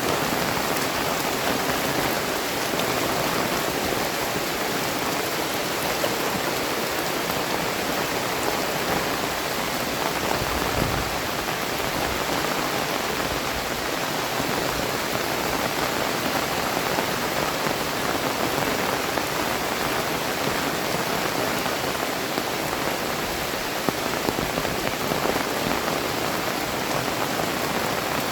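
Very heavy tropical rain falling steadily, a dense, even rush of drops striking surfaces.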